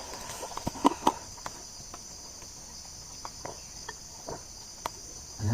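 Steady high-pitched chorus of insects chirring, with scattered light clicks and knocks of handling close by, a few sharper ones about a second in.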